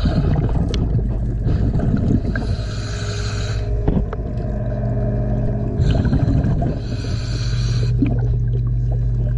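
Underwater sound of a diver's breathing regulator: two long breaths of hiss and bubbling, about four seconds apart, over a steady low hum.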